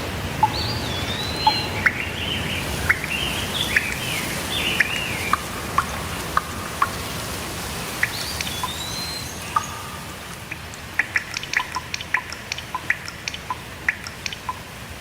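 Steady rain hiss with birds singing short rising and falling whistled phrases through the first half and again about eight seconds in. Sharp water drips tick throughout and come thick and fast in the last few seconds, as the rain hiss eases slightly.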